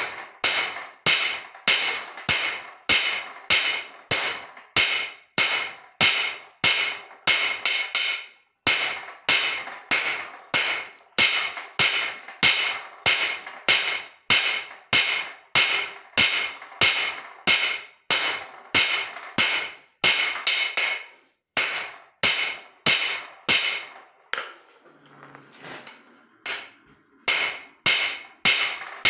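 Hand hammer striking hot leaf-spring steel on an anvil, about two ringing blows a second, as the cleaver blank is forged. The blows break off briefly a little over a quarter of the way in and pause for a few seconds near the end before resuming.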